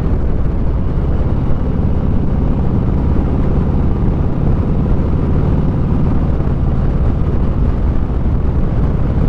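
Motorcycle engine running steadily at road speed, mixed with wind rush.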